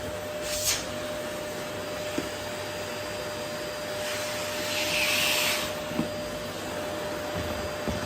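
Vacuum cleaner running, picking up rose petals: a steady rush of air with a constant whine under it. Around five seconds in the suction hiss swells for about a second.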